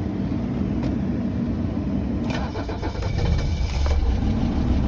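Mercedes OM617 five-cylinder turbo diesel being cranked by the starter in −9 °C cold after glow-plug pre-heating. About three seconds in it catches and runs, clearly louder and deeper.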